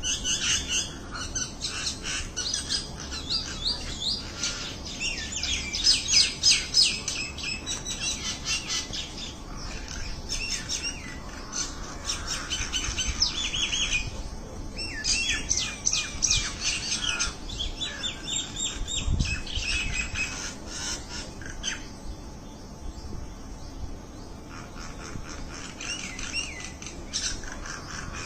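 Many small birds chirping together in a dense chorus of quick, rapidly repeated chirps, busiest in the first half and thinning out after about twenty seconds.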